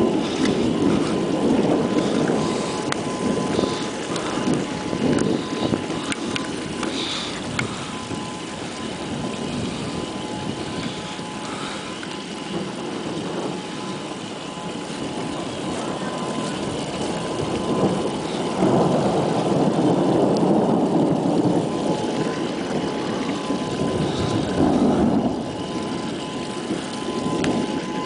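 Gusty wind buffeting the microphone, rising and falling in surges every few seconds, with a faint steady two-note high tone held underneath.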